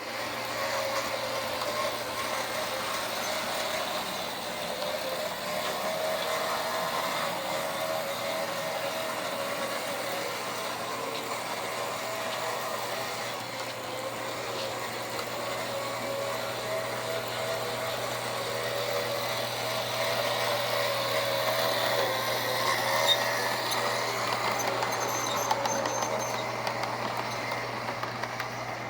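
O gauge model steam locomotive running on three-rail track, its electric motor and gearing whining in a tone that wavers slightly with speed over a steady hum and wheel noise. A few light clicks near the end.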